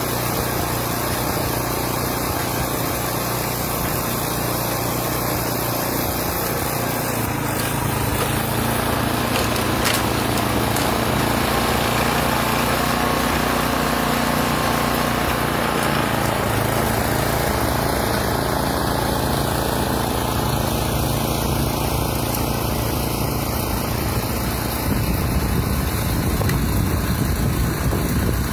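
Small gasoline snowblower engine running steadily; its note shifts a few times.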